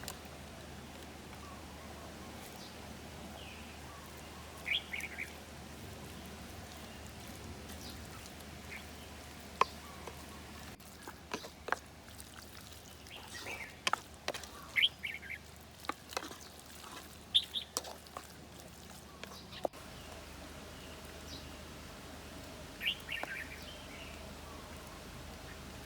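Birds chirping in short, scattered calls over a steady background hiss. Through the middle stretch comes a run of sharp clicks and taps.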